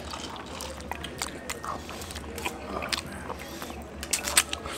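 Close-up chewing and lip smacking as a man eats a sauced chicken wing by hand, with irregular short wet clicks over a steady low room hum. Near the end he sucks sauce off his fingers.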